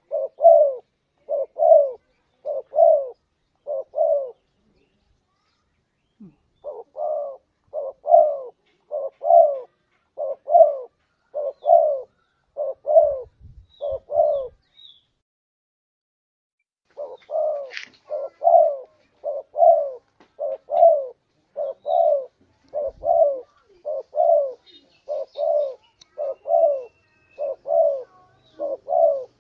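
Spotted dove (tekukur) cooing: a steady run of soft, repeated coo notes, a little under two a second, in three long phrases broken by two short pauses.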